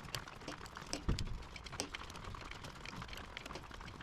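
Hand tools working on a go-kart frame: scattered, irregular clicks and light clinks, with one dull thump about a second in.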